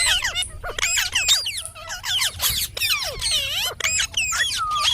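Indian ringneck parakeet chattering: a rapid run of squeaky calls and squawks with quick up-and-down pitch glides.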